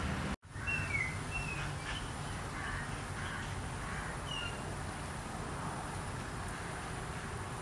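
Outdoor ambience: a steady low rumble and hiss with a few short, high bird chirps, three close together about a second in and one more around four seconds in. The sound drops out for an instant just after the start.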